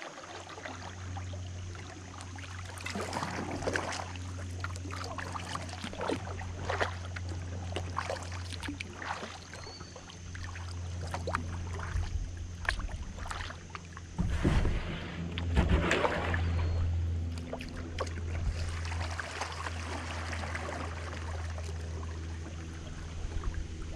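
Kayak paddle strokes dipping and splashing in the river, with drips and knocks coming at an irregular pace and a heavier cluster about two-thirds of the way through, over a steady low hum.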